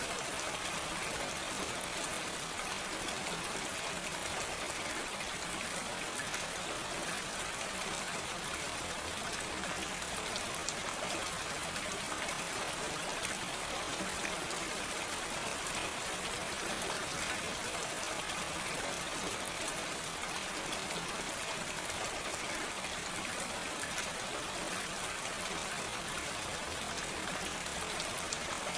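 Steady, gentle rain falling, an even hiss with fine patter of drops and no thunder.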